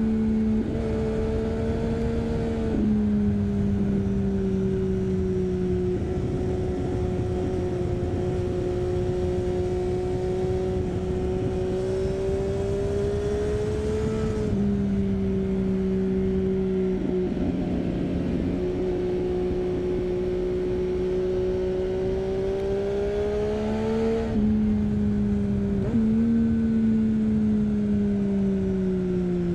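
Triumph Street Triple 675's inline-three engine running through an Arrow 3-2 exhaust with the dB killer fitted, under way at fairly steady revs. Its pitch steps down and up several times with throttle and gear changes, and falls near the end.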